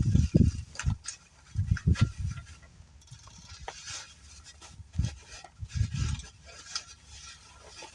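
Wind buffeting the phone's microphone in irregular low gusts, mixed with rustling of bubble-wrap packaging being handled.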